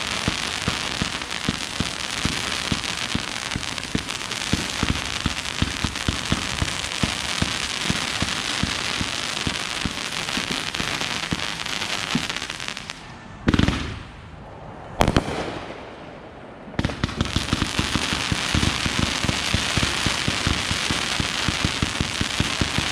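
Backyard consumer fireworks going off in a dense, rapid crackling barrage of many small pops. About thirteen seconds in, the crackle breaks off for a few seconds, leaving two single sharp bangs, and then resumes.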